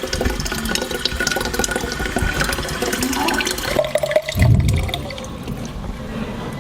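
Tap water running and splashing as a bottle is filled at the tap. A brief, louder low burst comes a little past the middle.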